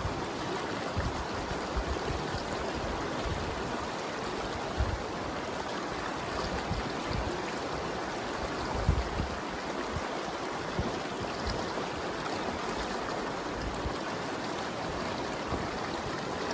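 Steady rush of flowing river water, with a couple of brief low bumps on the microphone.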